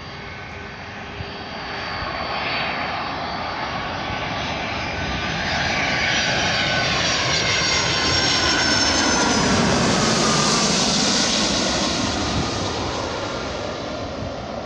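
Boeing 757 twin-engine jet flying past, its engine noise swelling to a peak about two-thirds of the way through and then fading. The turbofans' high whining tones slide down in pitch as it goes by.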